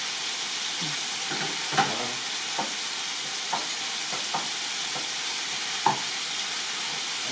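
Chicken masala with tomatoes sizzling steadily in a hot pan while it is stirred, with a handful of sharp knocks from the stirring spoon against the pan, the loudest about two seconds and six seconds in.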